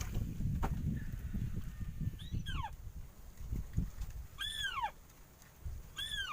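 A bird giving a plaintive call three times, about two seconds apart. Each call is a short note that rises a little and then slides down in pitch. Low rustling noise comes before the first call.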